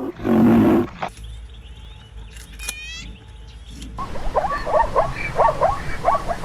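Animal calls: a loud, low pitched call in the first second, then, after a quieter stretch, a run of short high chirping calls, about three or four a second.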